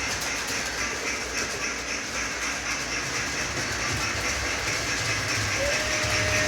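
Steam locomotive and its cars moving on the rails, with a steady hiss of steam and rail clatter. A single steady tone starts near the end.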